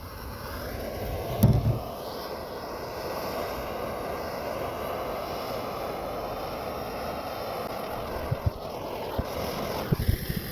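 Steady rushing roar of a propane torch flame burning a wooden axe handle, with a loud thump about a second and a half in and a few light knocks near the end.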